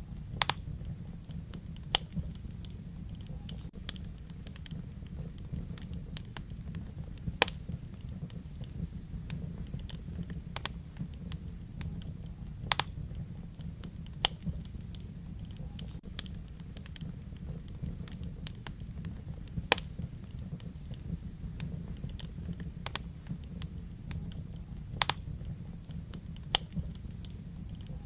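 Wood fire burning in a fireplace: a steady low rumble of flames with scattered crackles and sharp pops from the burning logs, a dozen or so louder pops at irregular intervals.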